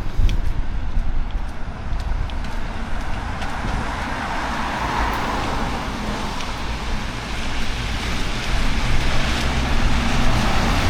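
Road traffic passing on a wet street, its tyre hiss swelling about halfway through and again near the end, with wind rumbling on the microphone.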